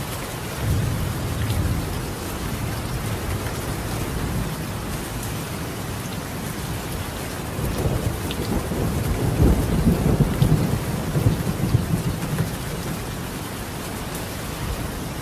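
Steady heavy rain on clay roof tiles, with distant thunder: a short low rumble about a second in, then a longer, louder rolling rumble about halfway through.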